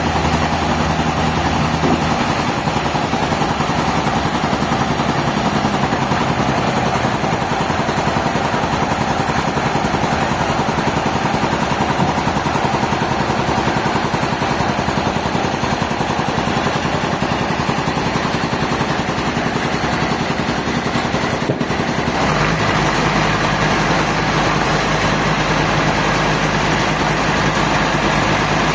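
Sawmill machinery running steadily. Its sound changes about two seconds in and again near the end.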